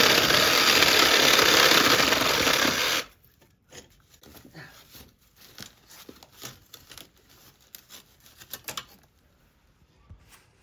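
Handheld power tool running loudly and steadily, cutting off sharply about three seconds in, followed by scattered light knocks and clicks.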